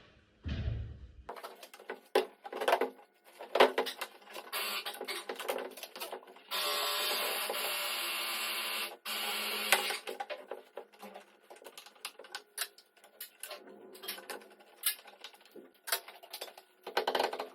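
Garage repair work on a car body: scattered metal clanks, clicks and knocks from tools, with a steady power-tool whir lasting about three seconds in the middle of the stretch.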